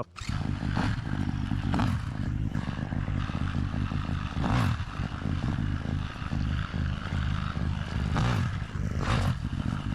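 Dirt bike engine running close to the microphone, with several brief louder surges.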